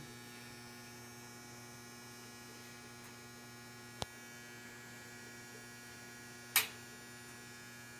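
Household boiler giving off a steady low electrical buzzing hum, which the owner takes as a sign that the boiler needs replacing. A sharp click comes about four seconds in and a brief louder noise about two and a half seconds later.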